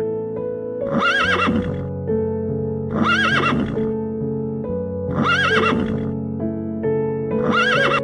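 A horse whinnying four times, about two seconds apart, each neigh short with a wavering pitch, over background music of held chords.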